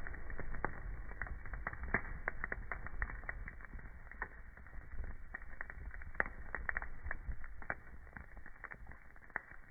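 Wood fire crackling in a fireplace: many irregular sharp pops and snaps over a low, steady rumble of the flames.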